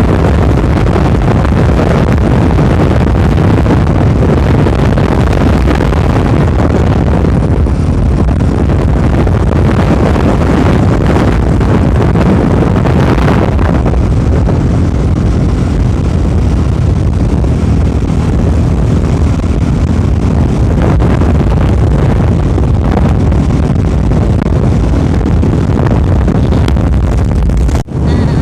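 Loud, steady vehicle noise, an engine and road noise with wind on the microphone, as when riding along a road; it drops out for a moment near the end.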